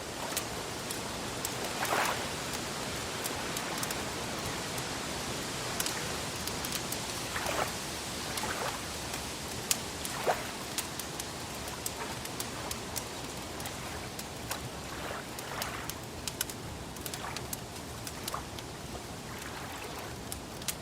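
Steady soft wash of lake water, with a fire crackling over it: many small clicks and a few louder pops.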